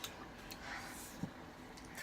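A few faint clicks and soft eating sounds as noodles are eaten.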